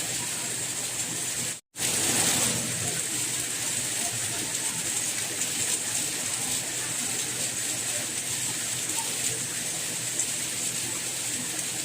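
Steady rain, an even hiss of falling water. About one and a half seconds in, it cuts out completely for a split second, like a splice in a loop, then returns slightly louder for about a second before settling back.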